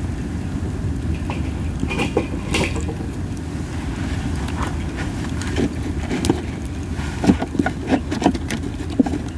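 Masaki (Japanese spindle tree) wood burning in a campfire: scattered crackles and pops over a steady low rumble, with a short hiss about two seconds in. The pops come thicker in the second half.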